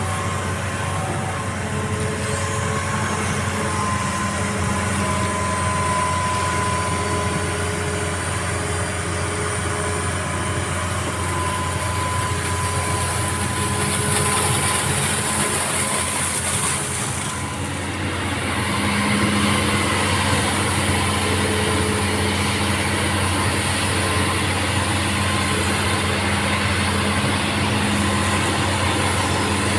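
Excavator diesel engine running steadily at work. There is a brief high hiss about halfway through, and the engine grows a little louder after a short dip about two-thirds of the way.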